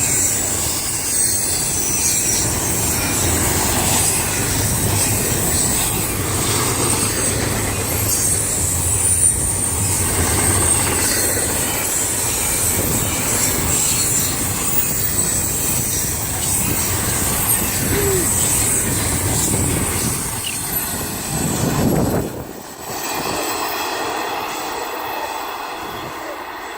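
Freight train cars rolling past on a tight curve, a steady rumble and clatter with steel wheels squealing against the rail. About 22 seconds in the sound falls away suddenly, leaving a quieter hum.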